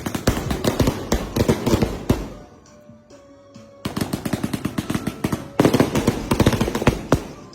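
Multi-shot firework cake firing in rapid volleys of sharp bangs, about eight shots a second. The barrage breaks off about two seconds in, pauses for a second and a half, then fires again and dies away near the end.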